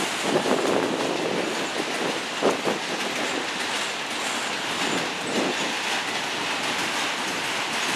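CSX autorack freight cars rolling past: a steady rumble of steel wheels on rail, with a louder clack now and then as wheels cross rail joints.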